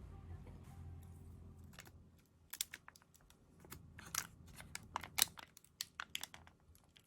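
A string of sharp, irregular clicks and crackles, starting about two and a half seconds in, over a faint low hum.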